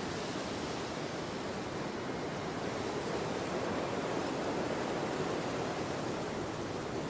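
Storm wind blowing: a steady rushing noise that swells a little midway.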